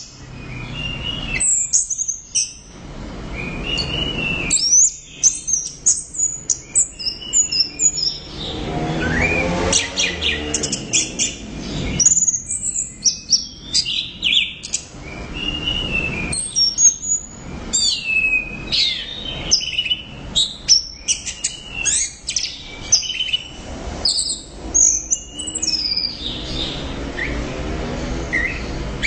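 Orange-headed thrush (anis merah) singing a long, nearly unbroken song of rapid, varied high chirps, trills and whistles.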